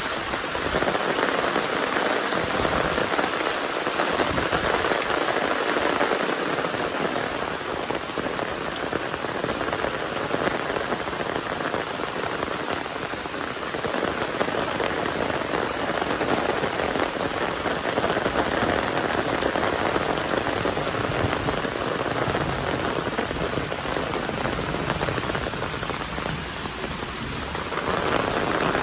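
Steady rain falling on surfaces: a continuous patter of drops that swells and eases a little.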